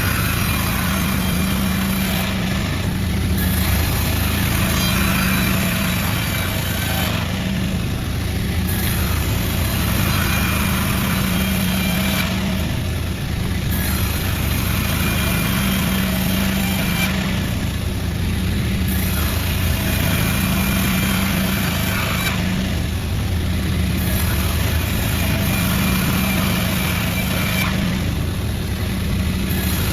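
Sawmill machinery running steadily under load, a constant engine-like drone with a higher sawing hiss that drops out briefly about every five seconds, six times, as the cuts repeat.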